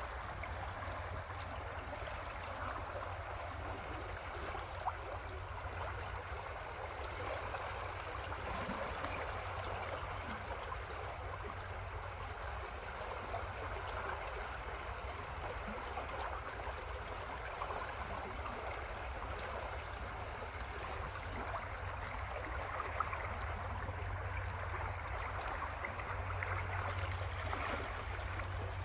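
River water flowing steadily over rocks, a continuous rushing and gurgling with a low rumble underneath.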